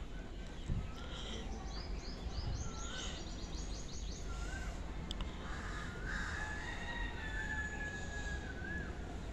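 Birds calling outdoors: short hooked whistled notes repeated every second or two, a quick high trill early on, and a long held whistle about two-thirds of the way through. All of this sits over a steady low background rumble, with a soft thump about a second in.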